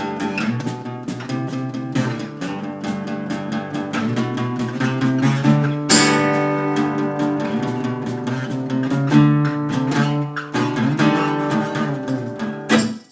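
Acoustic guitar strumming the closing chords of the song, with no vocals. It ends on a last hard strum near the end and then stops abruptly.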